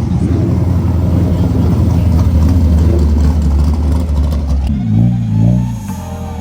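Car engine running loudly and steadily, with a brief wavering rise and fall in pitch about five seconds in.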